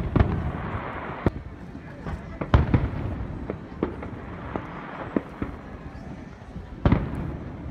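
Aerial fireworks shells bursting in a string of sharp bangs, roughly one a second, each trailing off in an echo. The loudest bangs come at the very start and again near the end.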